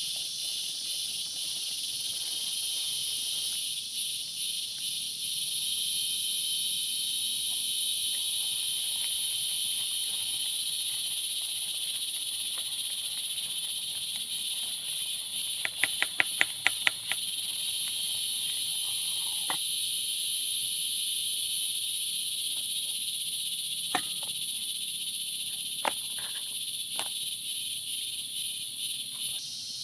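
Steady, shrill chorus of forest insects. About halfway through, a quick run of about eight sharp clicks, then a few single clicks later.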